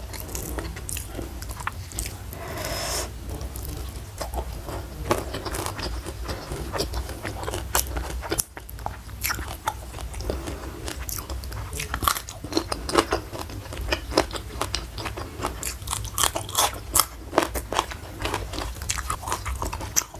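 Close-up chewing with frequent, irregular crisp crunches: a mouthful of salted fish and stir-fried water spinach being eaten.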